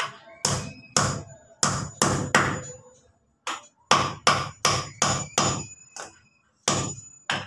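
Hammer driving nails into wooden lumber: about a dozen sharp strikes in three quick runs of roughly two to three blows a second, with short pauses between them and a faint high metallic ring after the blows.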